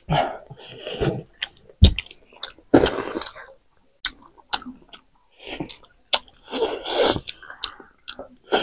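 Close-up eating sounds of two people eating maize and chicken by hand: wet chewing and lip-smacking with irregular clicks, broken by several louder noisy bursts of about half a second each.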